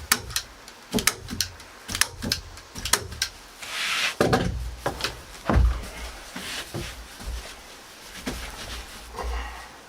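Irregular sharp knocks and clicks of hand work on wooden floor boards and foil insulation, with a short rustle about four seconds in and a few dull thuds.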